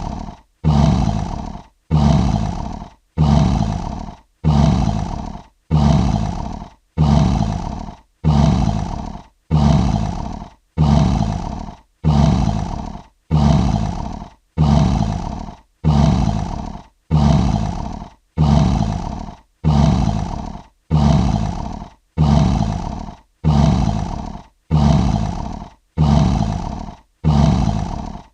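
Lion roar sound effect: one short roar repeated about once a second in identical copies, each starting loud, fading, and cut off sharply before the next.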